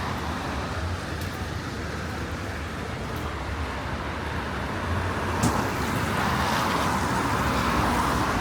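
Road traffic: cars passing with a steady low rumble and tyre hiss that swells as vehicles go by, with one short knock about five and a half seconds in.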